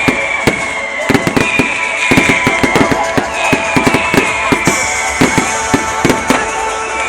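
Fireworks going off in a rapid, irregular string of sharp bangs and crackles, with music playing underneath.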